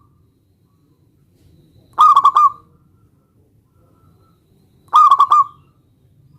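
Zebra dove (perkutut) cooing: a short rolling call of about four quick, fluttering notes, given twice about three seconds apart, with the end of another call at the very start.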